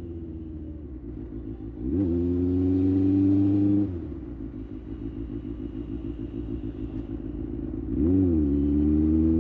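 Kawasaki ZX-6R's inline-four engine on the move. Its pitch eases down at first; about two seconds in the throttle opens sharply to a loud, steady pull for about two seconds, then shuts off to quieter, choppier off-throttle running, and near the end the throttle opens again.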